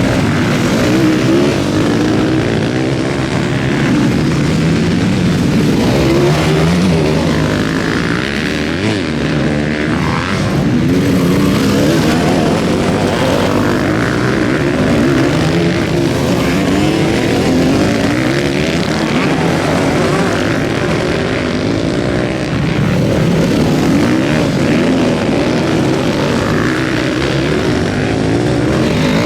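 Several motocross bikes racing, their engines revving up and dropping back over and over as they overlap one another.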